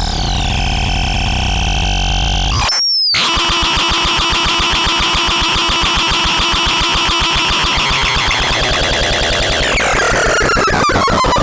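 Synthesizer making harsh, noisy electronic tones. A held note glides down near the start, then cuts out briefly under a rising squeal. It changes into a fast rattling buzz over a steady pitch, which sweeps down near the end and breaks into rapid clicks.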